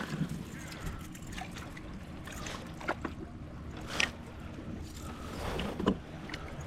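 Scattered small knocks and clicks of gear being handled aboard a kayak, with a sharp click about four seconds in and another near the end, over faint water sounds and a low steady rumble.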